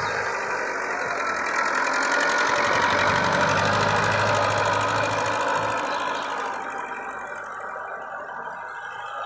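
TAFE tractor's diesel engine running as it cultivates the field, louder for a few seconds and then falling away about six seconds in.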